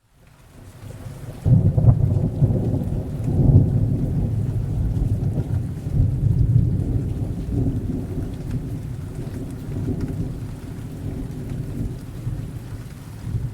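A long rolling thunder rumble over steady rain. It swells in over the first second or two, peaks a couple of times in the first few seconds, then slowly fades.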